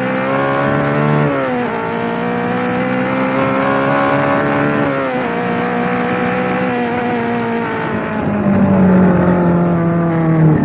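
Yamaha FZ25 motorcycle's 249 cc single-cylinder engine pulling through the gears. The pitch climbs, drops sharply with an upshift about one and a half seconds in and again about five seconds in, then falls gradually as the bike slows.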